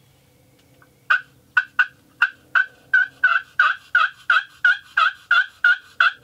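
Hen turkey yelps made on a hunter's turkey call: a loud, raspy run of about fifteen yelps that starts about a second in and settles into roughly three a second.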